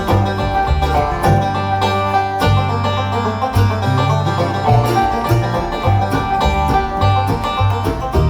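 Bluegrass band playing an instrumental live, with a fast picked five-string banjo over guitar and a steady bass line.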